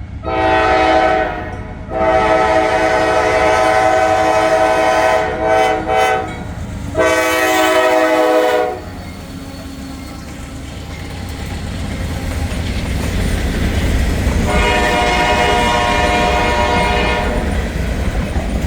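Diesel freight locomotive's air horn sounding a series of blasts for the crossing: a short one, a long one of about four seconds, another shorter one, then after a pause a last blast a few seconds before the end. Under the later part, the low rumble of the approaching train grows steadily louder.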